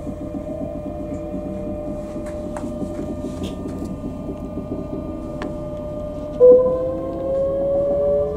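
Electric train's traction motors whining, heard from inside the carriage as it gathers speed: several tones that slowly rise in pitch. A louder rising whine joins about six and a half seconds in.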